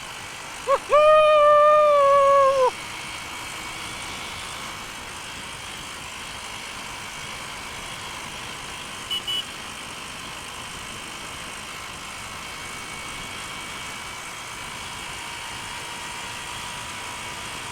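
Steady riding noise of a motorcycle on the highway: wind rush and engine drone. Near the start a loud held note sounds for about two seconds, and a short high beep comes about halfway through.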